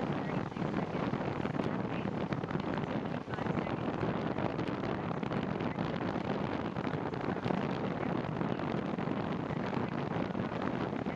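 Steady rush of wind over the microphone with road noise from a bicycle being ridden in the rain.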